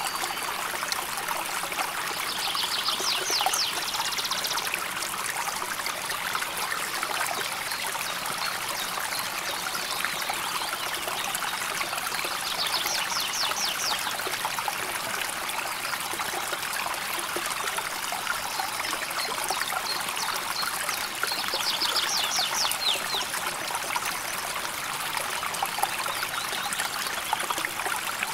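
A river flowing and trickling steadily. A short, high, rapid trill comes three times, about ten seconds apart.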